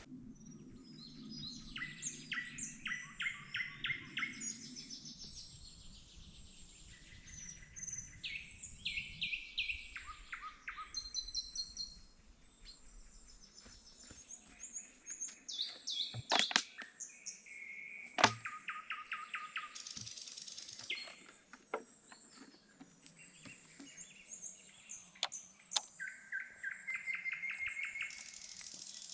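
Wild songbirds singing throughout, with many quick repeated chirps and trills. A few sharp knocks come about halfway through.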